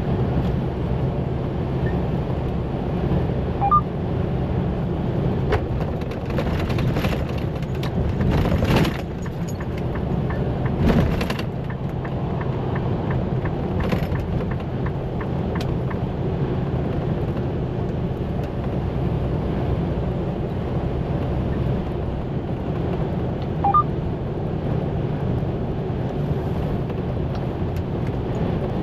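Semi-truck driving on the highway, heard from inside the cab: a steady low engine and road drone, with a few louder swells of noise about seven to eleven seconds in.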